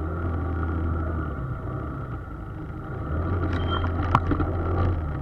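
Steady low engine and road drone heard inside a moving vehicle's cabin, with one sharp click a little after four seconds in.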